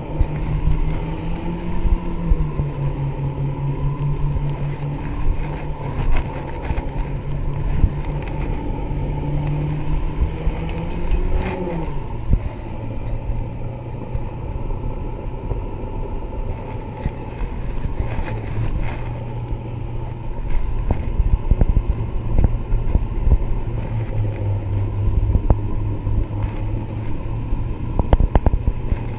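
Outboard motor of a Mako 19 Pro Skiff running under way at steady throttle. Its hum dips slightly about two seconds in, climbs briefly near the middle, then settles lower. Frequent short knocks run through it.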